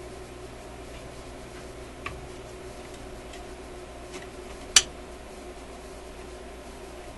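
Metal screwdriver clicking against a screw head on a metal chassis while a stubborn screw is worked: a few light ticks and one sharp click a little before five seconds in, over a steady low hum.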